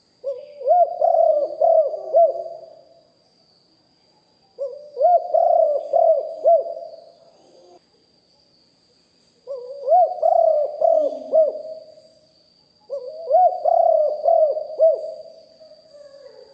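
Spotted dove cooing: four phrases of several rolling coos each, a couple of seconds apart.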